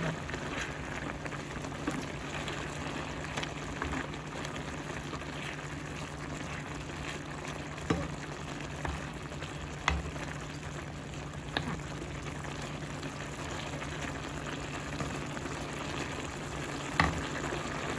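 Beef and green beans simmering and sizzling in their cooking liquid in a large pan, bubbling steadily. A wooden spoon knocks sharply against the pan a few times. A steady low hum runs underneath.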